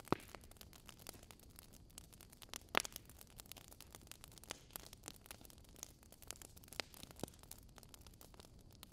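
Wood fire crackling softly, with irregular small snaps and a few louder pops, over a faint steady hiss.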